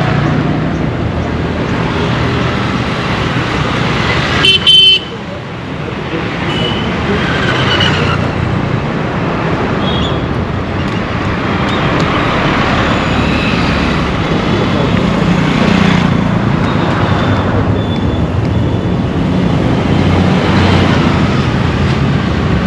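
Dense road traffic: a steady mix of vehicle engines and tyre noise, with one loud horn blast about four and a half seconds in and several fainter horns honking through the rest.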